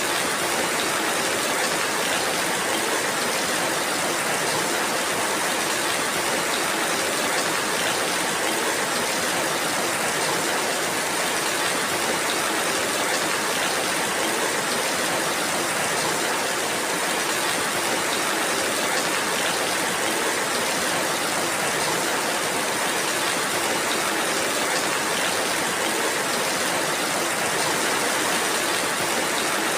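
Steady rainfall, a dense, even hiss that holds at the same level throughout with no separate drops, thunder or other events standing out.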